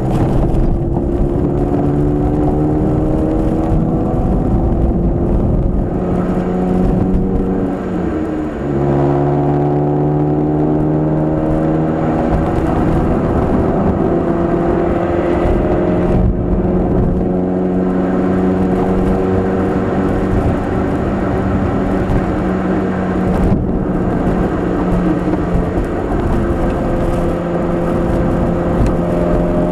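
Nissan K12 March 12SR's 1.2-litre four-cylinder engine running through a Kakimoto Racing aftermarket exhaust (NCP360 centre pipe, GTbox 02 edi. rear muffler), heard from inside the cabin while driving. The engine pitch climbs under acceleration and drops sharply about eight seconds in, as at an upshift. It then climbs again slowly and settles to a fairly steady drone.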